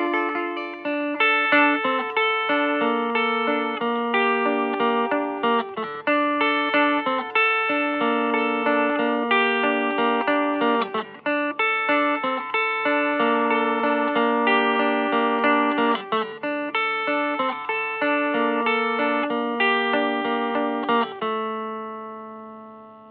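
G&L Legacy USA electric guitar with Alnico V single-coil pickups, played through a Hiwatt Custom 20 2x10 combo amp: a run of picked single notes and double-stops, ending on a last note that rings out and fades away near the end.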